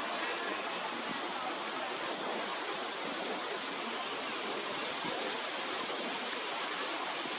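Steady rushing outdoor noise, even and unbroken, with no distinct calls or knocks standing out.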